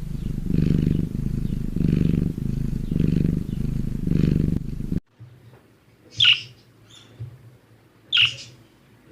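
Cat purring loudly in a steady in-and-out rhythm, cut off abruptly about five seconds in. Then, over a quiet background, come two short high-pitched chirps about two seconds apart, with a fainter one between them.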